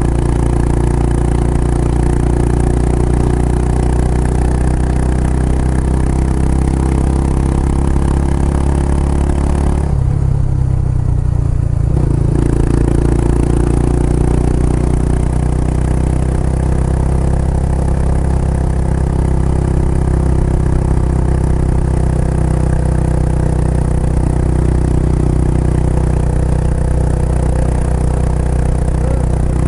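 Kawasaki Estrella's single-cylinder engine running steadily through an aftermarket Yamato muffler. About ten seconds in, the upper part of the sound falls away for around two seconds, then returns.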